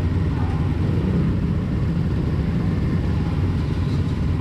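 Pit bike engine running steadily, heard as a constant low rumble.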